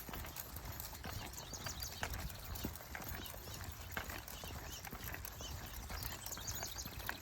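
Irregular footsteps and paw steps on a dirt trail from a walking pack of dogs and their walker, over a low rumble.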